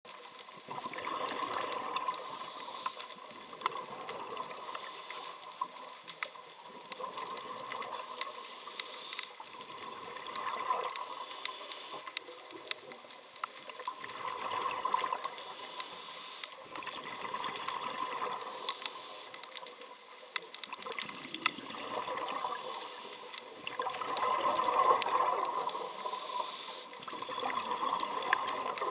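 Water sloshing and bubbling in slow swells about every three to four seconds, with many scattered sharp clicks.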